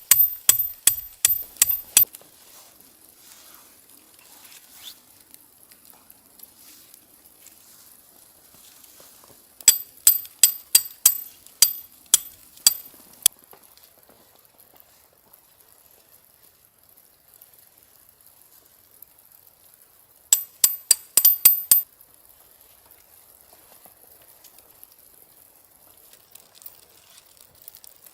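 A metal utensil clinking rapidly against a ringing metal pot or cup, as in stirring, in three bursts of quick strikes, the longest in the middle.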